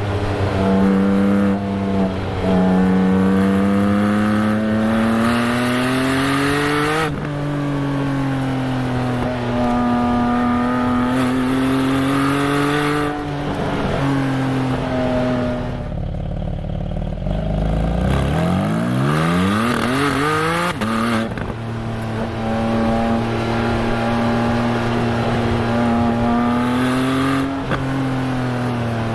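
Porsche 718 Spyder's 4.0-litre flat-six exhaust, heard from a rear-bumper mic, pulling through the gears. Engine pitch climbs and drops back at PDK upshifts about a third and half of the way in, settles low for a couple of seconds, then revs up quickly and holds a steady low-rpm drone. That farty low-rpm tone comes from the mic sitting near one tailpipe.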